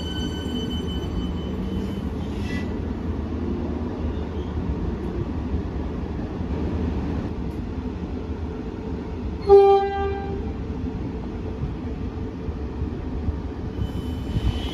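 Rumble of an electric suburban train at a station platform, with one short toot of a train horn about two-thirds of the way through.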